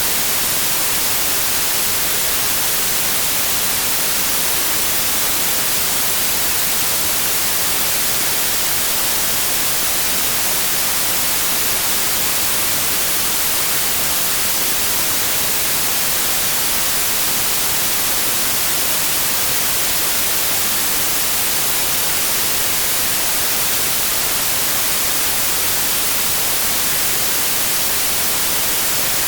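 Digitally generated white noise: a steady, even hiss with no change throughout.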